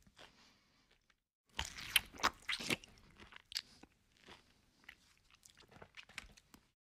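Close-miked eating: crisp fried food crunching in the mouth, loudest in a burst of crackles about one and a half seconds in, then softer chewing and wet lip smacks.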